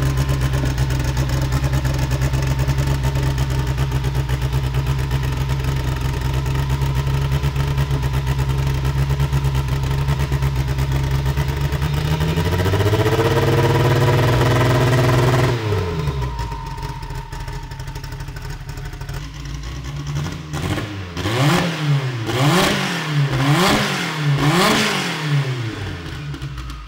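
Turbocharged Honda four-cylinder drag-race engine idling steadily. About halfway through it is revved up and held for a few seconds, then drops back to a quieter idle. Near the end it is blipped through several quick revs.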